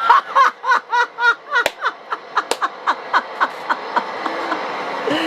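A man laughing hard in a rapid run of short 'ha' bursts, about four a second, that thins out and tails off over a few seconds.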